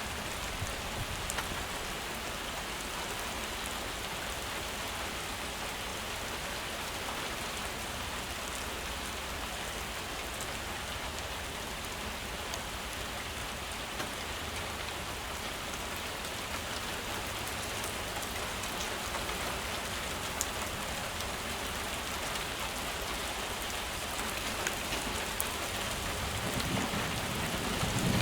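Heavy rain falling steadily, with scattered sharp drip ticks over an even hiss. A low rumble swells near the end.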